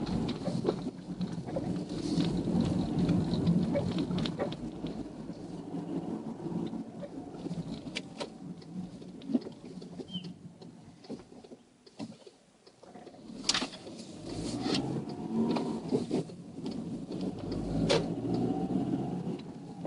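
VW Golf Mk5 1.4 petrol car with its engine running and the load rising and falling. A few sharp clunks are heard, the clearest about two-thirds of the way through and near the end. This is the clunk the owner gets on pressing or releasing the throttle in the lower gears, worse when cold, which he says is not the gearbox mount.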